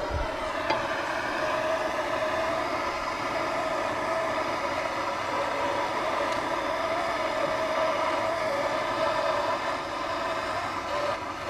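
An engine running steadily at an even speed, a constant pitched hum with no change in pitch, and a faint click about a second in.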